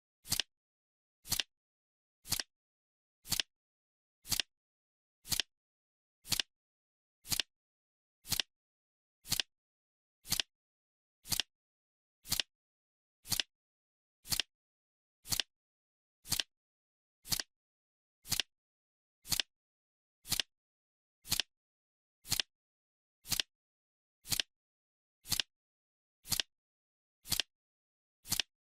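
Clock ticking, one sharp tick each second, with silence between the ticks.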